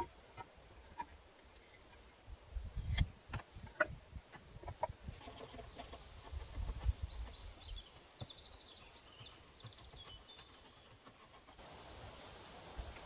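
Small birds chirping, with a quick trill a little past the middle. Scattered sharp knocks and a few low thumps come through underneath, and a steady hiss rises near the end.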